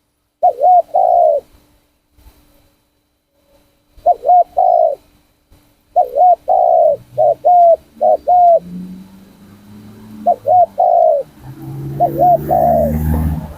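Spotted dove cooing in short phrases of arched coos, five phrases a few seconds apart. A low rumble builds up near the end.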